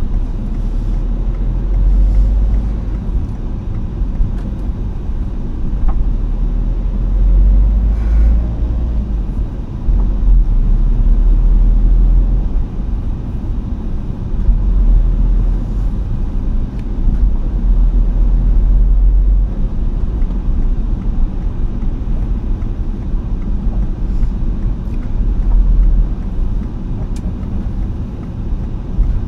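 A car driving, with a steady low rumble of road noise that swells and eases every few seconds.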